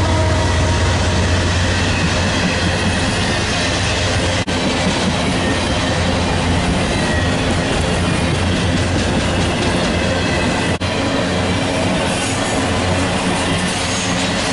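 Norfolk Southern diesel freight train passing close: locomotive engines running under a steady roar of steel wheels rolling on the rails. The sound drops out sharply for an instant twice, at cuts between shots.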